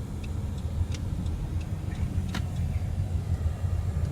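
Outdoor low rumble, uneven in level, with scattered light clicks and one sharper click about two and a half seconds in.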